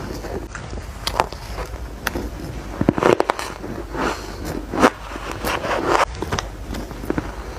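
Close-up chewing of spoonfuls of shaved ice: irregular crisp crunches, roughly one a second, with the loudest ones about three and five seconds in.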